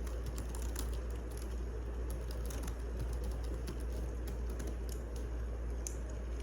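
Wood fire burning, with irregular crackles and small pops over a steady low rumble.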